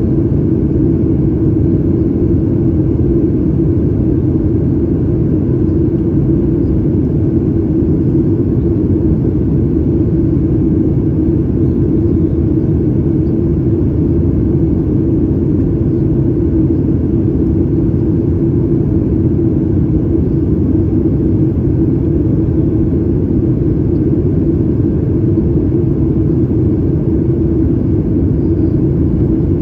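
Steady, unchanging cabin drone inside a Boeing 737 MAX 8, from its CFM LEAP-1B engines and airflow. It carries a constant low hum.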